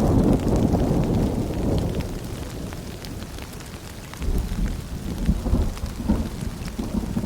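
Steady rain pattering with low rolling thunder. The rumble is strongest at the start, eases off for a moment, and swells again about four seconds in.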